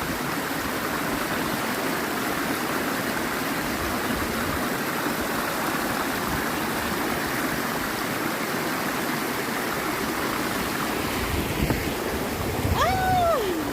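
River and waterfall water rushing in a steady, even roar. Near the end a short voice exclamation rises and falls in pitch.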